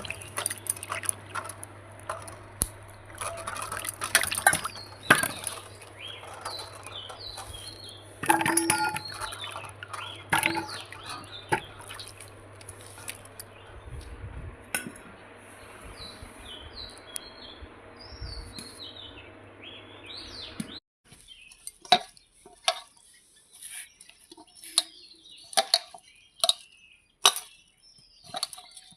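Small birds chirping, with many sharp clicks and knocks and a steady low hum; about 21 seconds in the hum cuts out suddenly and the clicks and chirps go on against a quieter background.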